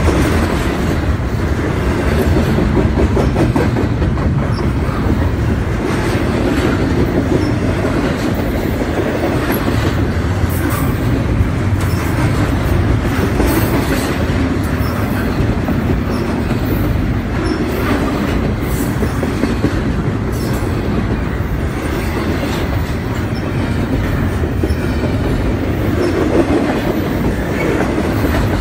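CSX double-stack intermodal freight cars roaring past at close range: a loud, steady rumble of steel wheels on rail, with clickety-clack and scattered clanks as the cars roll over the rail joints.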